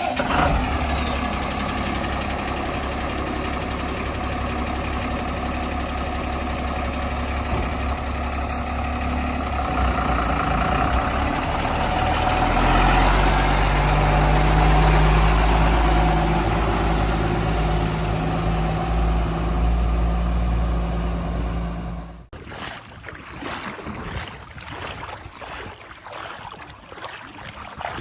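Heavy diesel engine of a backhoe or truck running, rising in pitch and level about twelve seconds in as it revs up and holds. It cuts off abruptly after about 22 seconds, leaving fainter, uneven noise.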